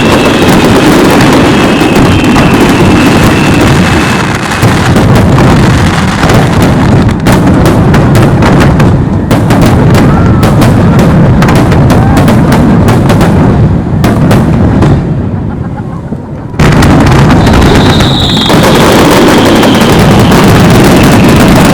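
Aerial fireworks shells bursting in a dense, continuous barrage of booms, with a spell of rapid sharp crackling in the middle. The loudness dips briefly and then the booming comes back all at once near the end.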